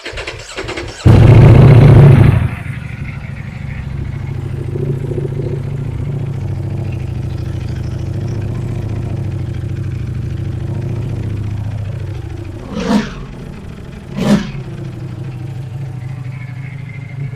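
Ducati Panigale V4 S's V4 engine with its stock exhaust, started up with a loud flare of revs, then settling to a steady idle. Near the end the throttle is blipped twice briefly.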